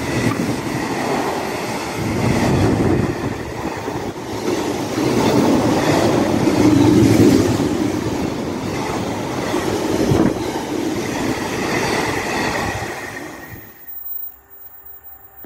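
Container freight train's wagons rolling past at speed: a continuous rumble of steel wheels on rail that swells and eases, with a few sharp clunks. About fourteen seconds in it cuts off abruptly to a faint quiet background.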